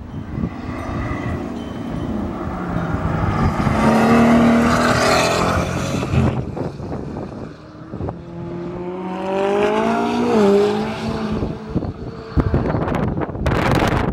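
Supercars accelerating hard past on a race circuit. First a Pagani Huayra BC's twin-turbo V12 climbs in revs as it passes. Then a McLaren's twin-turbo V8 revs up as it slides out of a corner, with a brief dip in revs about ten and a half seconds in, and gusts of wind hit the microphone near the end.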